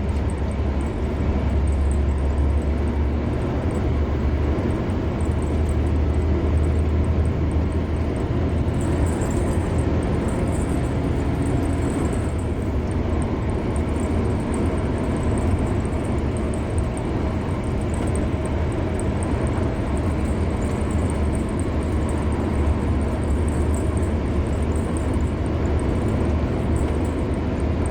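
Car driving on a highway: steady road and tyre noise with a deep, constant low rumble.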